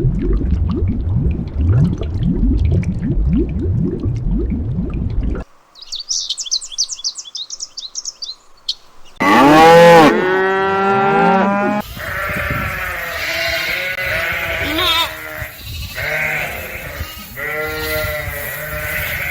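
A run of animal calls. First, about five seconds of low, rapid, repeated pulsing calls. Then a short bout of high chirping, and from about nine seconds in, loud wavering bleats repeated several times, the loudest near the ten-second mark.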